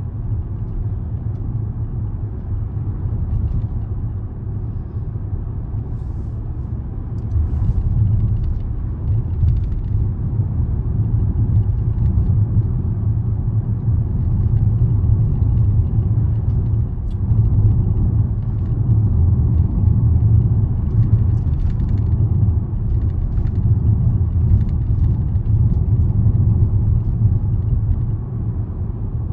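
Steady low rumble of a car on the move, heard inside the cabin: road and engine noise, getting a little louder about a quarter of the way in.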